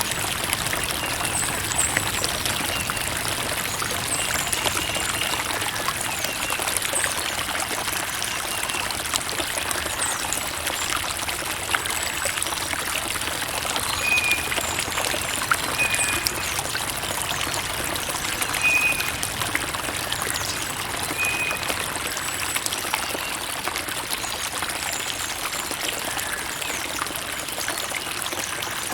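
Shallow creek water trickling and babbling steadily over stones, a continuous hiss of running water without let-up.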